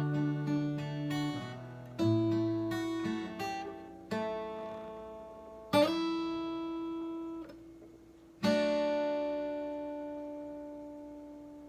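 Acoustic guitar playing the closing bars of a song: a few picked notes, then single chords struck every couple of seconds, the last one about two-thirds of the way through left to ring and fade away.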